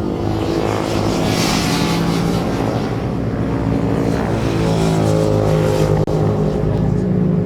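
Racing motorcycle engines running hard at high revs, their pitch shifting as they run, with a brief sharp drop in loudness about six seconds in.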